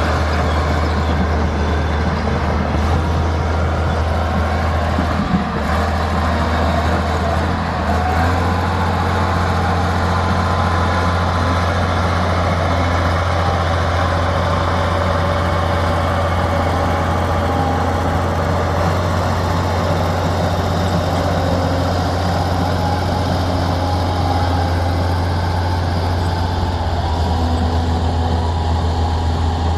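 Hanomag MF600C crawler bulldozer's diesel engine running steadily while working, a deep, even drone with a brief dip about five seconds in.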